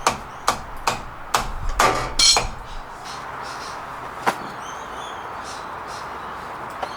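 Sharp metal knocks and clanks from work on a car's front drive shaft: a quick run of about seven in the first two and a half seconds, then single knocks about four seconds in and near the end.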